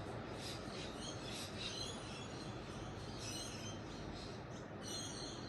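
Ocean surf washing steadily on the beach, with birds chirping in short bursts several times over it.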